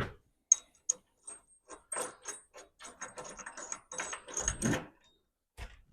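Small steel bolts, nuts and washers being handled and fitted: a run of light, irregular metallic clicks and clinks, with a couple of duller thumps near the end.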